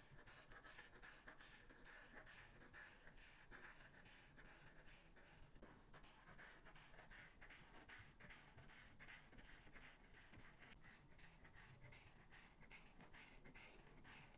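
Faint, quick back-and-forth strokes of an alcohol marker tip scratching over paper, several strokes a second, as a page is coloured in.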